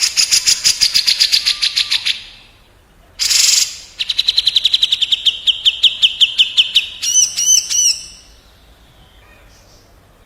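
Cage-bird song recording of a cucak jenggot (grey-cheeked bulbul) and a kapas tembak trading fast high trills. One short harsh rasp comes about three seconds in. From about four seconds a rapid trill slides down in pitch, and it ends in a few arched whistled notes.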